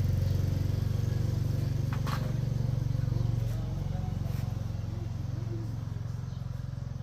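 A motorcycle engine running steadily, slowly fading over several seconds, with a brief sharp click about two seconds in.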